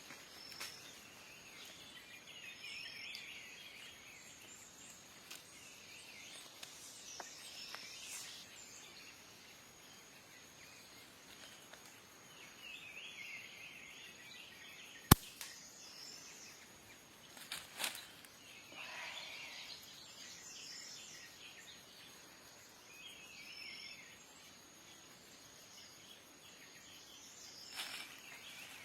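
Small birds chirping in short scattered bursts every few seconds over quiet outdoor ambience. A single sharp, loud crack comes about halfway through.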